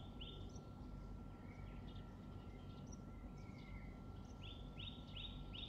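Faint outdoor birdsong: a bird repeats short falling chirps about three a second, briefly at the start and again in the last second or so, with scattered softer chirps between, over a thin steady high tone and a low background hum.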